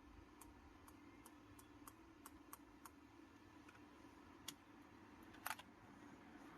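Faint, scattered small clicks and ticks of a refrigerator's plastic door gasket and door frame being handled, a few a second at first, with a louder cluster of clicks about five and a half seconds in.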